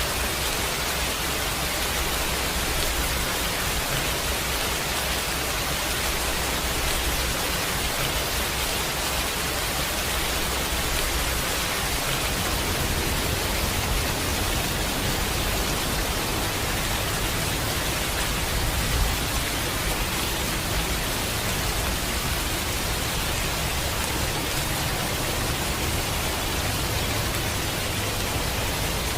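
Steady rain falling, an even, dense hiss with no breaks.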